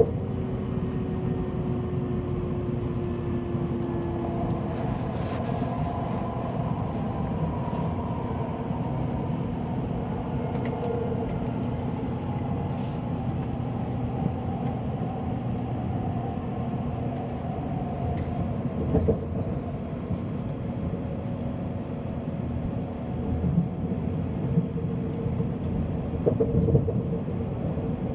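Inside an N700 series Shinkansen at speed: steady running rumble with a faint whine that falls slowly in pitch as the train slows. A few short knocks come through near the end.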